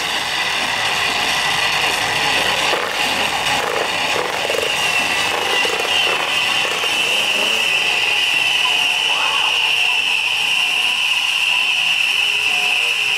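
Fireworks going off, with crackles and pops in the first few seconds. From about four seconds in, a steady high-pitched hiss from spark fountains takes over.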